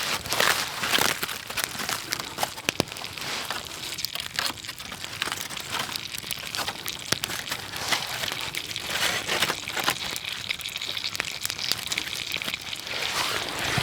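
Campfire cooking crackle and sizzle: many small, sharp crackles over a steady hiss.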